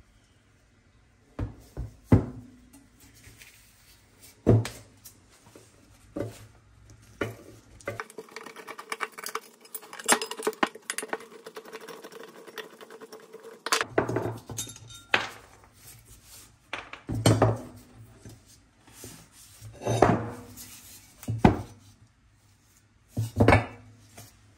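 Metal parts of a vintage ice crusher being taken apart on a workbench: the spiked crushing drum and metal housing pieces clink and knock as they are handled and set down. In the middle there is a few-second stretch of scraping and grinding from a screwdriver backing screws out of the housing.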